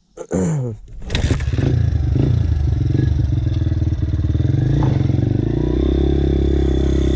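Dirt bike engine starting up: a short burst in the first second, then the engine catches and runs steadily.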